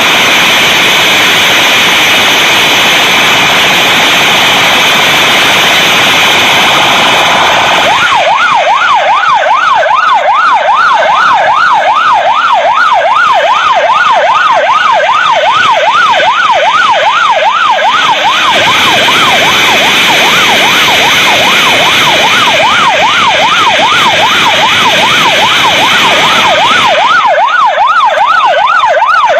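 Police motorcycle siren in fast yelp mode, sweeping up and down a little over twice a second, starting about eight seconds in. It sounds over a loud, steady rushing noise that fills the first several seconds on its own.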